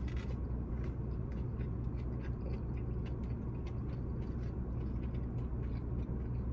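Faint mouth clicks and chewing sounds of someone eating Nashville hot fried cheese, scattered irregularly over a steady low hum.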